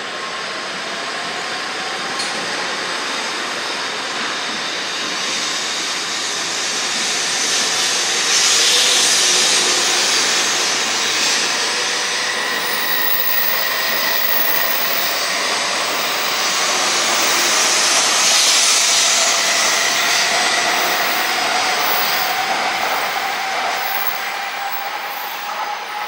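Shinkansen train moving at the platform: a steady rush of wheels and air that swells twice, with a thin motor whine rising in pitch near the start and again toward the end.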